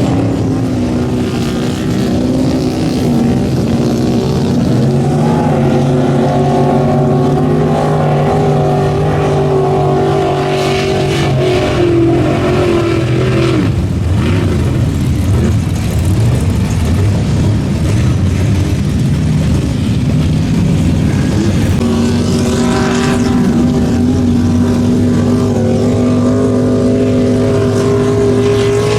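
A mud bog truck's engine held at high revs while running the pit. About halfway through the pitch breaks up into a rougher, noisier stretch, and then it settles back to a steady high-rev note for the last several seconds.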